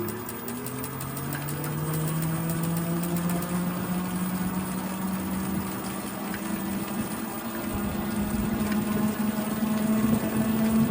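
Bicycle under way with a pitched whine that rises as it speeds up over the first couple of seconds, holds steady, then climbs again near the end. This is the annoying bike noise that the rider later traced to a need for upkeep.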